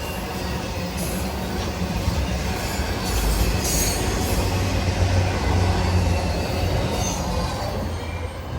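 Freight train of loaded autorack cars rolling past, a continuous rumble and rattle of steel wheels on rail, loudest midway through, with a few brief high squeals from the wheels.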